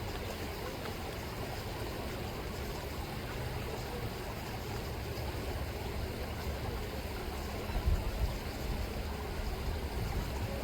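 River water rippling and flowing steadily, with a low rumble underneath and a brief louder bump about eight seconds in.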